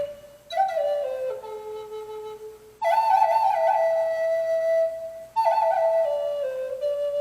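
Native American flute playing a slow solo melody in phrases that step downward in pitch and end on long held notes, with short breaths between phrases.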